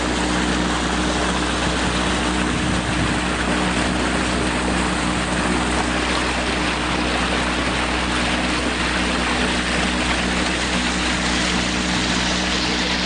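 Water washing steadily against rocks, a continuous even rush, with a constant low mechanical hum running underneath it.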